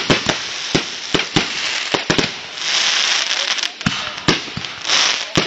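Fireworks going off: an irregular string of sharp pops and bangs, with two spells of loud hissing spray, one around the middle and one near the end.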